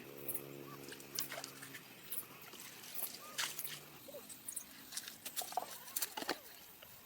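Water splashing and slapping in irregular sharp bursts, over a low steady drone that fades out about two seconds in.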